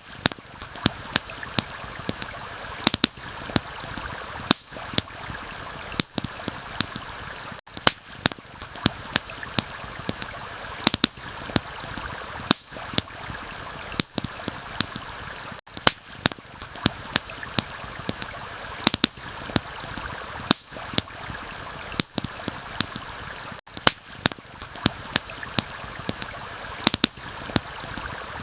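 Campfire crackling, with irregular sharp pops several times a second, over a steady rush of flowing water. The bed drops out briefly about every eight seconds, as a looped recording does.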